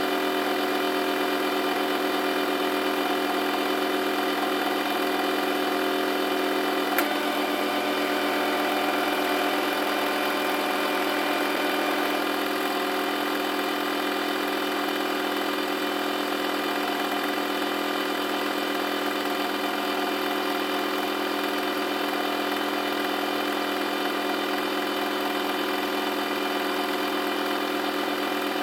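Washing machine running with a steady mechanical hum, with a single sharp click about seven seconds in.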